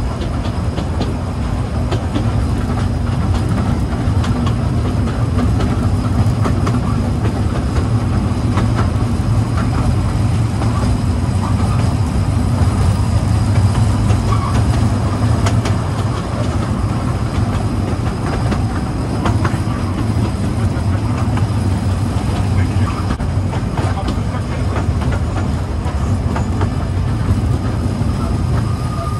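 Kurobe Gorge Railway trolley train running along the narrow-gauge track, heard from on board: a steady low rumble of wheels and cars with frequent rail-joint clicks.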